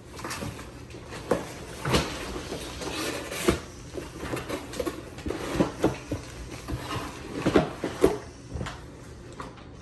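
A parcel being opened and its packaging handled: irregular rustling, scraping and sharp knocks.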